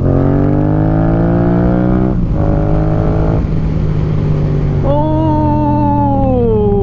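Motorcycle engine heard from the pillion seat under hard acceleration: the revs climb steadily, break off about two seconds in as the rider shifts up, and pull again. Near the end the pitch holds and then falls away as the throttle eases.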